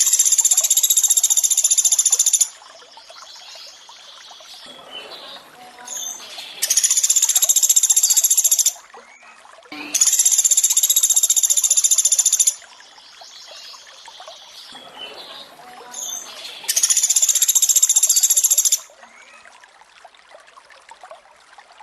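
Pelatuk beras song: a fast, high, rattling trill lasting about two seconds, repeated four times, with running water and softer bird calls in the gaps between the trills.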